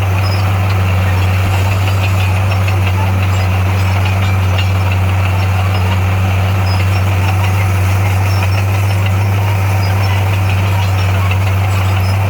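Heavy earthmoving machine's engine running at a steady speed, a loud, unchanging low drone with a rough mechanical clatter over it.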